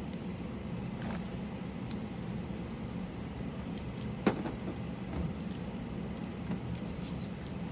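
Scattered light clicks and ticks of mechanical keyboard parts (keycaps and switches) being handled, with one sharper click about four seconds in, over a steady low hum.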